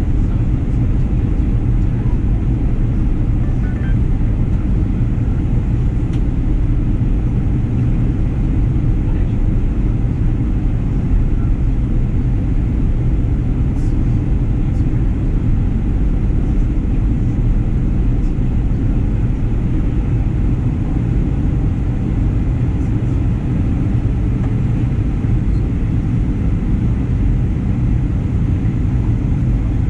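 Steady cabin noise inside a Boeing 737-900ER airliner in flight: a constant low rumble of engines and airflow, unchanging throughout.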